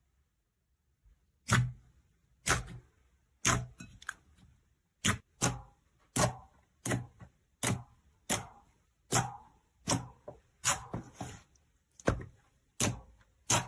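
Slime being pressed and poked, giving a series of sharp, sticky clicks and pops about one to two times a second, starting after about a second and a half of silence.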